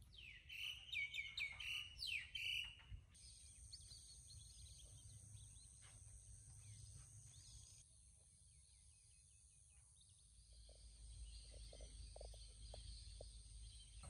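Small birds chirping: a flurry of quick, high chirps in the first three seconds, then faint outdoor ambience with a low rumble.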